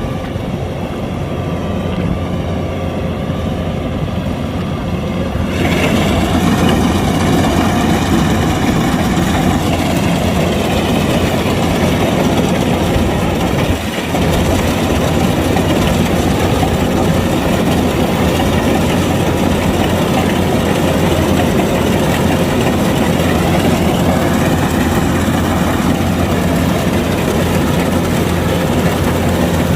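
Kubota DC-105X combine harvester's diesel engine running steadily, with machinery clatter. It gets abruptly louder about five and a half seconds in, with a brief dip about halfway through.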